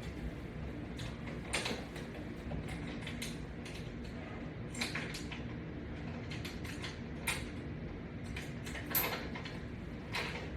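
Resistance-band strap and its metal hooks being handled and clipped on: scattered light clicks and rattles at irregular moments over a low background.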